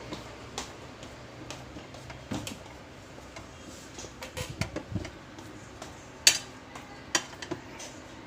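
Scattered metallic clinks and knocks of tools and parts being handled on a washing machine, with the sharpest click about six seconds in and another about a second after it.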